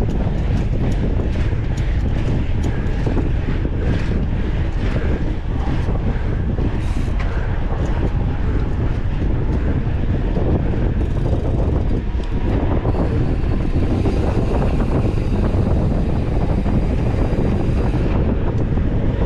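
Wind rushing over an action camera's microphone on a moving mountain bike, with the bike rattling and clattering over a rough trail. The clatter is most frequent in the first half.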